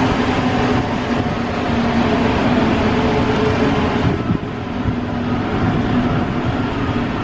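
Broadway all-cloth car wash machinery running steadily, a loud continuous mechanical noise with a faint hum, dipping briefly about four seconds in.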